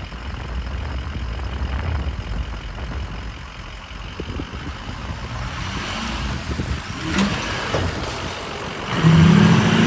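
Ford F-250's Powerstroke V8 turbodiesel engine running as the truck crawls along a rough off-road trail, getting louder near the end.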